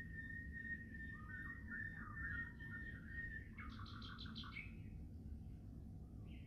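Small birds singing: a steady, high, whistle-like tone through the first half, then a quick run of about eight rapid notes a little past halfway and a short chirp near the end, over a low rumble.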